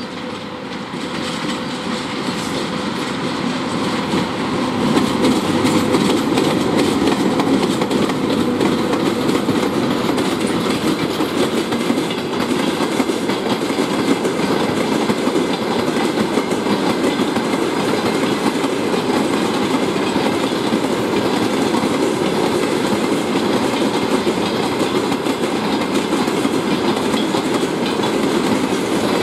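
Freight train hauled by a VL80K electric locomotive passing close by: the locomotive goes past first, then a long line of loaded open wagons rolls by. The rolling wheel noise grows over the first few seconds and then runs steady.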